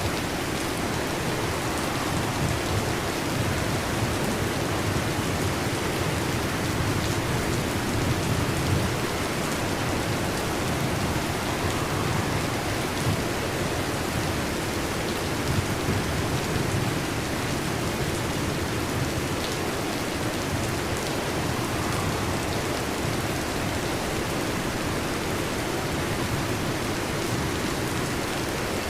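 Steady heavy rain, with low rumbling underneath and a few faint drop ticks.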